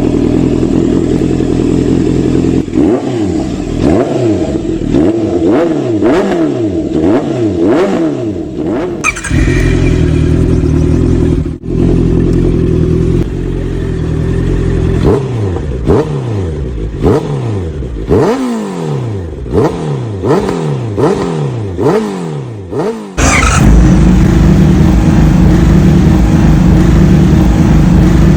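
Honda CB650R's inline-four engine through an aftermarket full exhaust, running steadily and then blipped again and again, each rev rising and falling about once a second, in two runs separated by a steady stretch. Near the end it holds a louder steady note.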